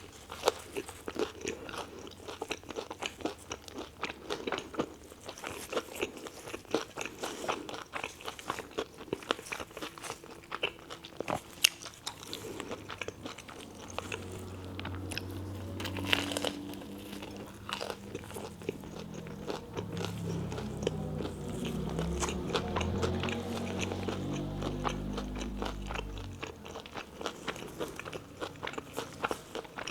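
Close-miked biting and chewing of a toasted tuna melt sandwich: crisp crunches and wet mouth clicks in quick succession, with a low hum swelling through the middle stretch.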